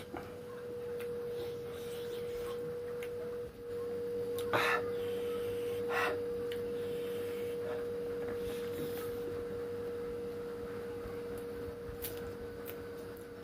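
A steady single-pitched tone that holds one note throughout, with two short noisy crunches about four and a half and six seconds in.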